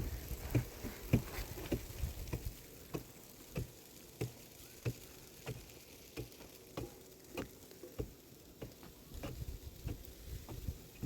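A steady series of short, sharp knocks, about three every two seconds, that stop about eight seconds in, followed by low rumbling near the end.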